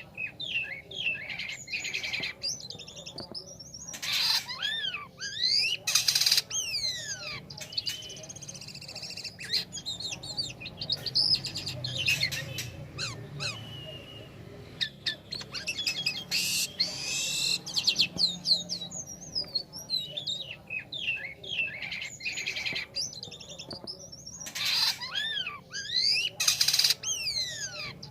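Jalak kapas starling singing a long, varied song: fast chattering runs of rising and falling whistles broken by several short, harsh, raspy bursts.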